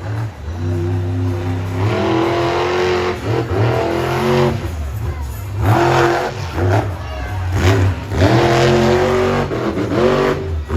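Monster truck engine revving hard in repeated bursts, its pitch rising and falling again and again.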